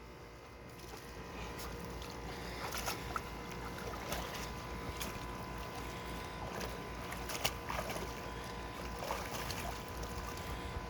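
Water sloshing and splashing in a small backyard pool as dogs wade and move about in it, with irregular short splashes over a steady wash.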